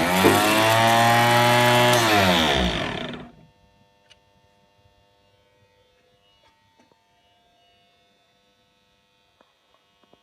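KAMAZ truck starter motor run: it spins up quickly to a steady whine, runs for about three seconds, then winds down and stops. After that only a faint steady hum and a few small ticks remain.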